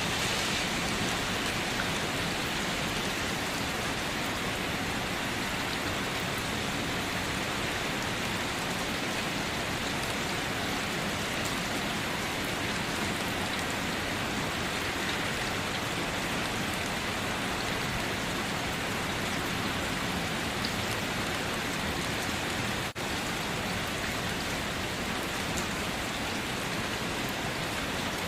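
Steady rain falling, an even, dense hiss of drops. It briefly drops out once, about four-fifths of the way through.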